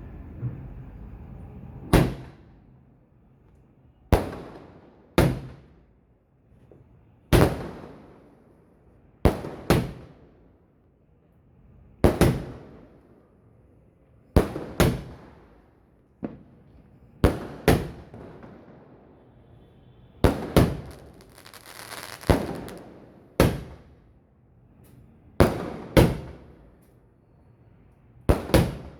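An 'Arabian Delight' 120-shot fireworks cake firing: sharp bangs every second or two, sometimes two or three in quick succession, each ringing away briefly. A burst of crackling comes about two-thirds of the way through.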